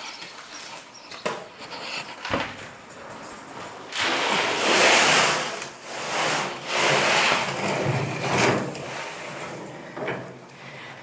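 Shovel scraping into gravel and gravel pouring off it, with a couple of sharp knocks in the first few seconds and the longest, loudest scrapes from about four to nine seconds in.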